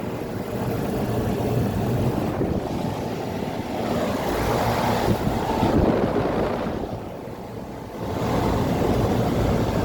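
Residential central air-conditioner condensing units, a Rheem and a Carrier Tech 2000, running: steady rush of the condenser fans blowing warm air over the compressor hum, briefly quieter about seven seconds in.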